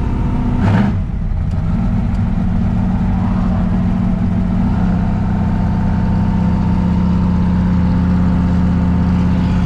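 Car engine running steadily while being driven. A brief louder sweep comes under a second in, and the engine note steps slightly higher about halfway through and then holds steady.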